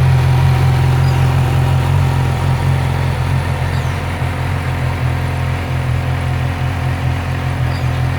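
2015 Yamaha YZF-R6's inline-four engine idling steadily, with no revs.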